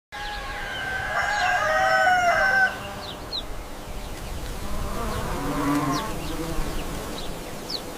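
A rooster crowing once, loud and drawn out, over a steady farmyard background with insects buzzing and short bird chirps. A lower call follows about five seconds in.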